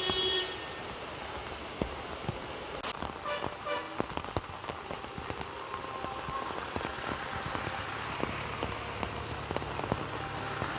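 Heavy rain falling on a street: a steady hiss with many sharp drop strikes. A low vehicle rumble joins near the end.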